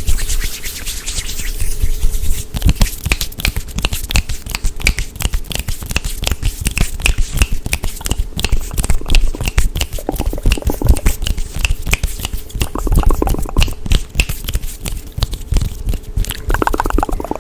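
Fast, aggressive ASMR hand and mouth sounds close to the microphone: a rapid, unbroken stream of clicks, taps and rubs, several a second, with short scratchy rubbing stretches now and then.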